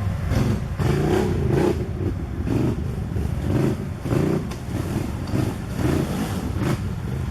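Quad bike (ATV) engine running, with the throttle blipped in repeated short revs over a steady low rumble.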